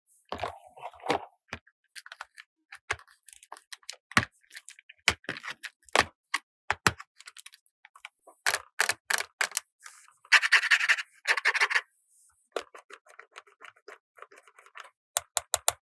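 Small plastic toy pieces being handled, tapped and clicked together or set down, one click after another. About ten seconds in there is a short rustle, and near the end comes a quick run of clicks.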